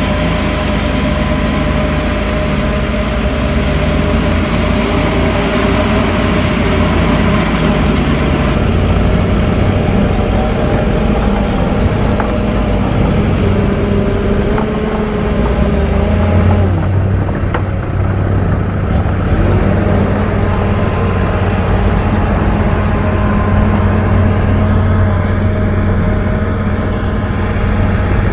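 Heavy diesel engine of earthmoving machinery running loud and steady, its pitch shifting a few times as the machine works, with a change in load about two-thirds of the way through.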